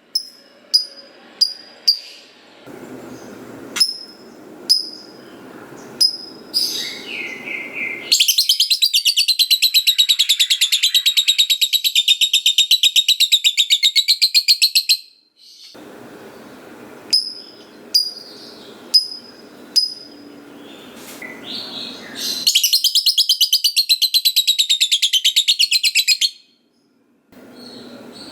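Lovebird calling: sharp high chirps repeated about once a second, broken twice by a long rapid chattering trill, the 'ngekek panjang'. The first trill lasts about seven seconds and the second about four, near the end.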